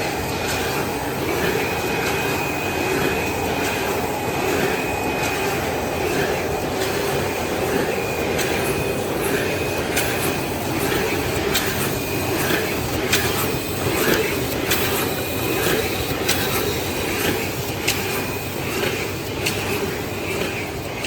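Automatic hole-drilling and magnet-pasting machines for rigid boxes running: a steady mechanical noise with a thin high whine and frequent sharp clicks and knocks at irregular intervals.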